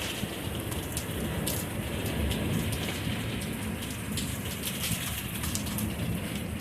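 Steady rain falling during a thunderstorm, with many individual drops striking sharply close by and a low rumble underneath.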